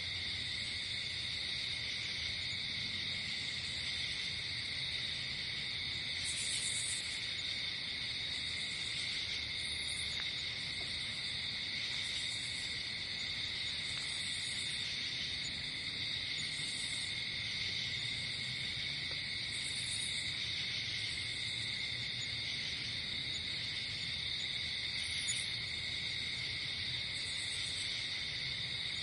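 Night insect chorus: crickets trilling steadily and without a break, with short, higher-pitched buzzes from other insects every couple of seconds.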